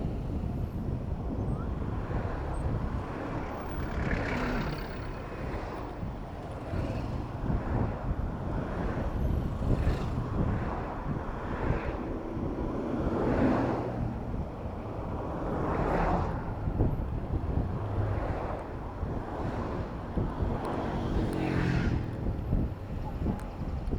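City road traffic heard from a moving bicycle: a steady low rumble of wind on the microphone, with motor vehicles passing close by every few seconds and their engines rising and fading.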